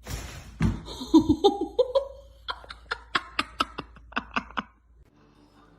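A person laughing: a burst of rising-pitched sounds, then a quick run of short "ha" pulses that stops before the end.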